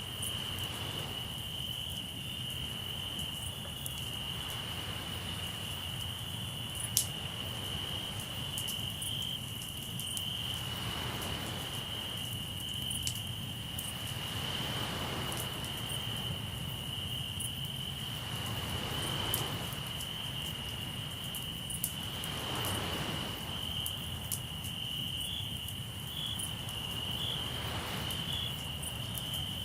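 Crickets chirping steadily at one high pitch, with sea waves washing in every few seconds and occasional sharp pops from a campfire, the loudest about seven seconds in.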